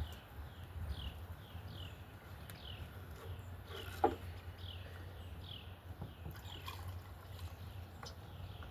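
Gasoline being poured from a gas can into a generator's fuel tank, over a steady low rumble. A high, falling chirp repeats about twice a second throughout, and a single sharp clink comes about four seconds in.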